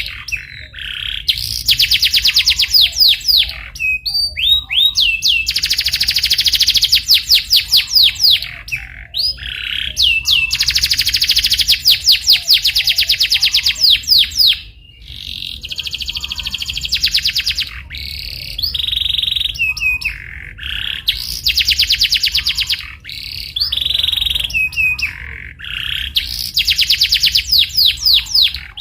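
Canary singing: phrases of very fast trills, each made of quick repeated high notes, a few seconds long with short breaks between. Now and then single chirps come between the phrases.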